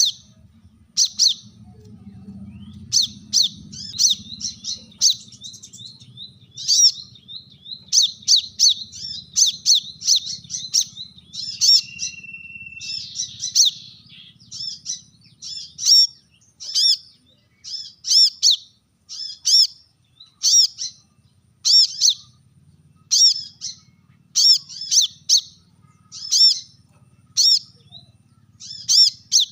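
Brown-throated sunbird (kolibri kelapa) giving sharp, high chirping calls over and over, in quick runs at first and then about one a second. A brief steady whistle comes about twelve seconds in, and a faint low hum lies underneath.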